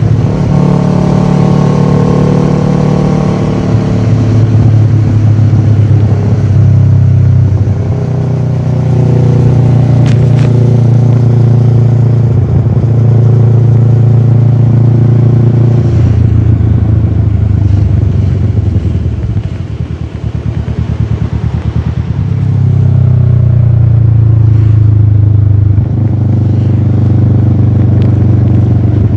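Kawasaki ER-6f parallel-twin engine running through a full Akrapovic exhaust while the bike is ridden, the revs rising and falling through the gears. Past halfway the engine eases off, then builds again near the end.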